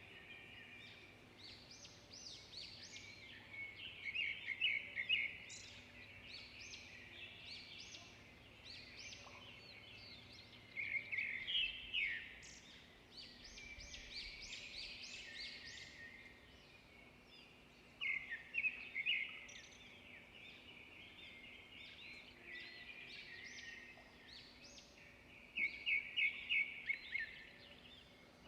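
Several small birds chirping and singing in a steady chorus, with louder bursts of fast chattering calls about every seven seconds.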